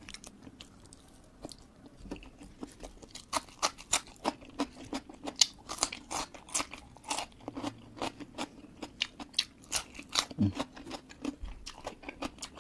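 A person chewing a mouthful of crunchy food close to the microphone: quiet at first, then crisp crunches coming irregularly, about two or three a second, from about three seconds in.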